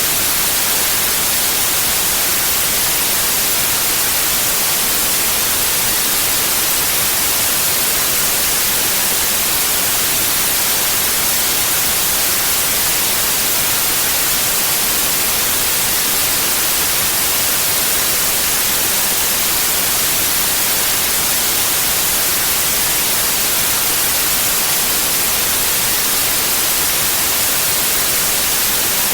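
Steady, unchanging white noise: a loud, even hiss with most of its energy in the high frequencies.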